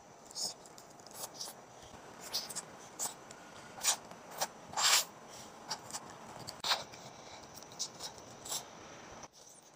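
Close-up eating sounds: irregular soft clicks, smacks and scrapes over a faint hiss, with the loudest about halfway through.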